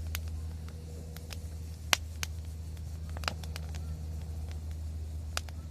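Wood fire crackling, with scattered irregular pops and snaps, a few of them sharper, about two, three and five seconds in, over a steady low hum.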